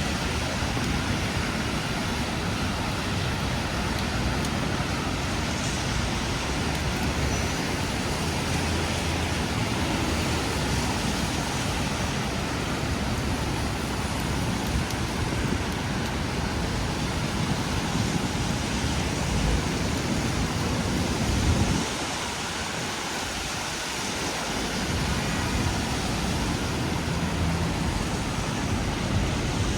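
Steady rain hissing over city street traffic, with the low rumble of passing vehicles underneath. The rumble briefly drops away about two-thirds of the way through, then returns.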